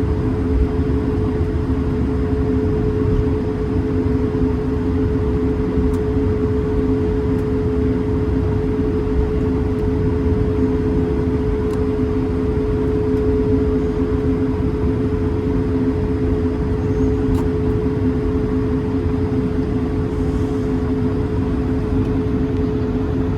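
Cabin noise of an Airbus A220-300 with its Pratt & Whitney PW1500G turbofans running: a steady hum with two held tones over a low rumble and airflow hiss, unchanging in pitch and level.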